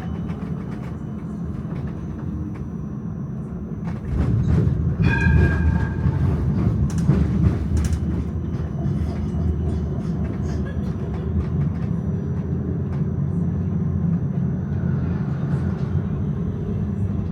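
Tram running along its rails with a steady low rumble of wheels and running gear. It grows louder about four seconds in, with a run of clacks over rail joints or points and a brief pitched squeal of wheel on rail.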